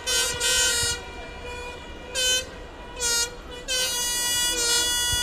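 Horns sounding in a string of short blasts over a steady held horn tone.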